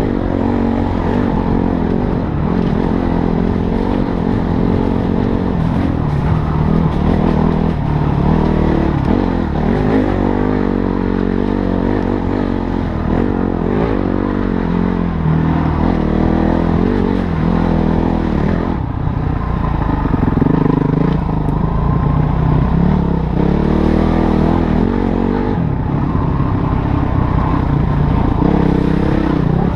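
Motorcycle engine running under way, its pitch rising and falling again and again as the throttle is opened and closed.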